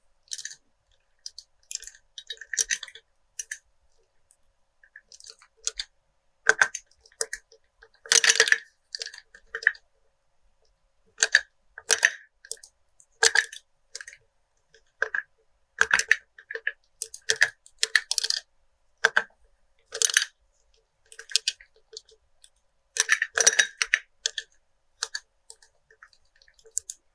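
Pens tapping on glass: irregular sharp taps, each with a short glassy ring at the same pitch, and a longer scraping stroke about 8 seconds in.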